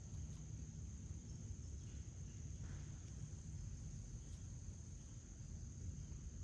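Outdoor insect chorus: a steady, high-pitched, unbroken trill over a constant low rumble, with a faint short chirp about three seconds in.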